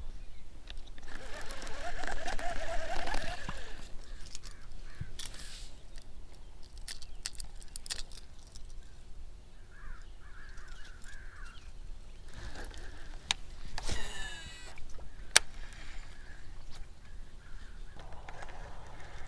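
Harsh bird calls for a couple of seconds near the start, then scattered clicks and ticks of a baitcasting rod and reel being handled, with a short falling whine about two-thirds of the way through.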